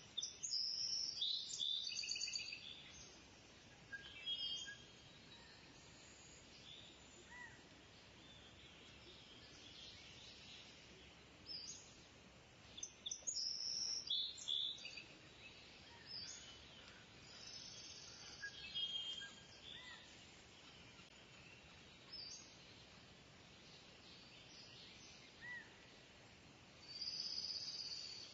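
Birds calling in bursts of high, chirping notes over a faint steady outdoor background, with the loudest flurries at the start, about halfway through and near the end.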